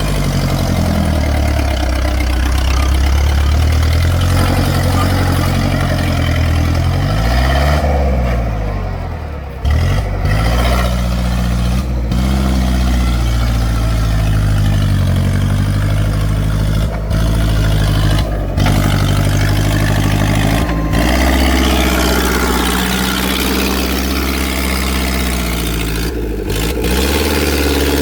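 Tractor engine running under load, revving up and down so its pitch rises and falls repeatedly, with a few abrupt breaks in the sound.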